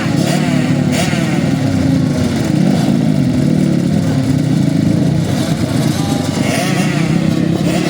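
Several motocross bikes running on the track together, their engines revving up and down with many overlapping rising and falling pitches.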